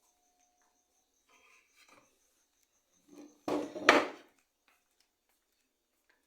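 A faint, high-pitched pulsing beep, about five pulses a second, from an unidentified source. About three and a half seconds in, a loud, brief scraping knock of something being handled or moved.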